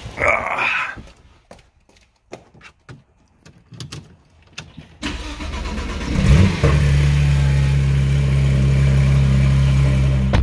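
Porsche 991.2 GT3's 4.0-litre flat-six being cold-started: a few scattered clicks, then the starter cranks about five seconds in. The engine catches with a brief rising flare and settles into a steady fast cold idle.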